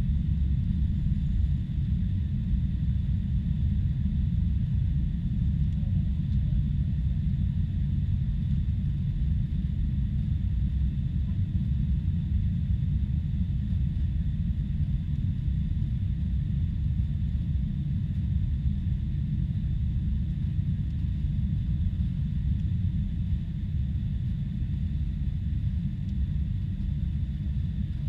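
Boeing 747-400 jet noise: a steady, unchanging low rumble with a faint steady high whine above it.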